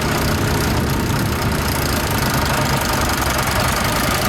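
Vintage farm tractor engine running steadily at low speed, with a fast, even chugging.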